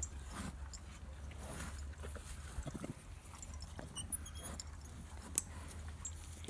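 Cattle moving about close by: scattered knocks, rustles and short clicks over a steady low rumble.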